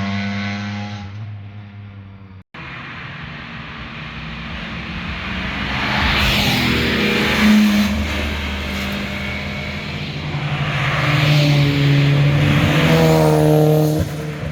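Cars driving past with their exhausts loud: one engine fades away, then after a sudden cut another car's engine builds up and passes. A second loud pass rises near the end and cuts off abruptly.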